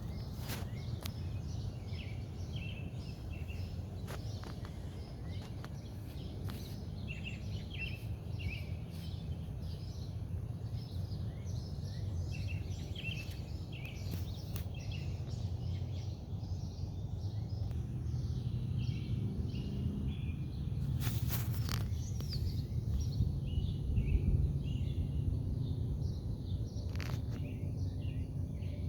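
Outdoor morning ambience: many short, high bird chirps and calls throughout over a steady low background rumble, with a few brief clicks and taps.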